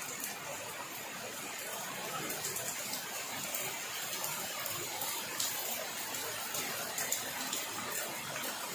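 Steady rain falling, a constant hiss of water with many small, sharp drop ticks scattered through it.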